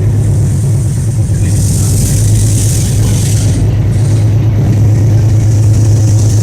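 Diesel locomotive engine running steadily with a deep, even hum, with a hiss that swells and fades about two seconds in.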